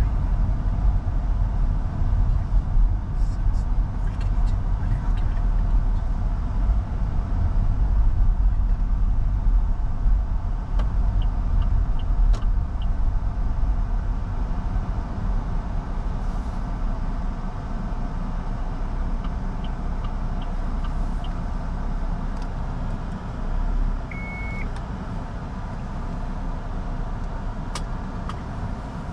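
Interior cabin noise of an MG Hector Plus SUV on the move: a steady low rumble of road and engine noise that eases off in the second half. Two short runs of faint regular ticks and one brief beep about three quarters of the way through sit over it.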